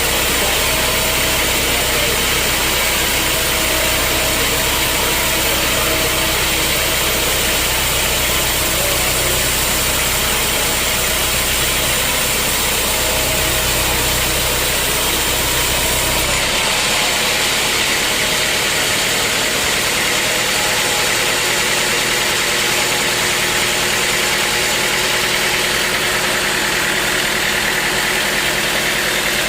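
Sawmill machinery running with a loud, steady mechanical noise. About sixteen seconds in, the deep low hum drops out while the higher-pitched noise carries on.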